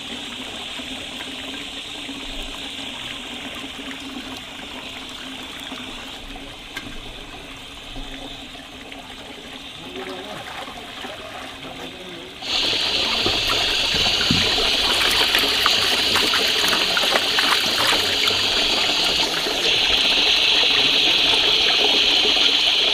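Water running steadily. About halfway through it suddenly becomes much louder and stays so.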